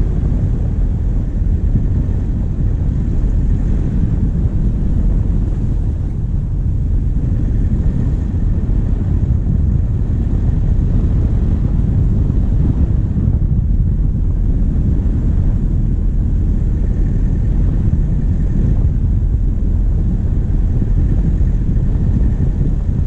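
Diesel engine of a vehicle driving, picked up by a camera mounted on the bonnet: a steady low rumble of engine, tyre and wind noise.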